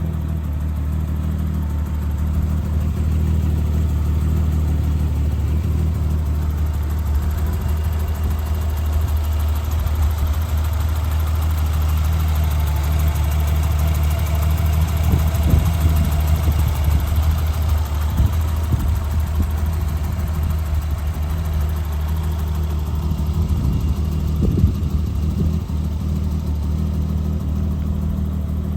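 Car engine idling steadily, heard close up, a steady low hum. A few short knocks come about halfway through and again near the end.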